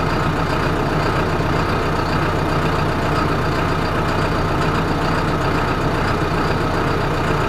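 John Deere tractor's diesel engine idling steadily, with a constant low drone and no change in speed.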